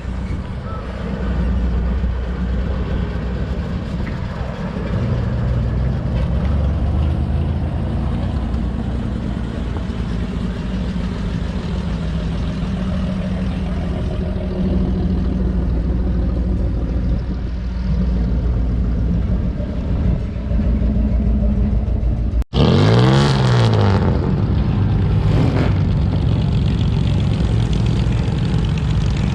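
Car engines running with a steady low rumble. After a sudden cut about 23 seconds in, a louder engine sound sweeps down and back up in pitch.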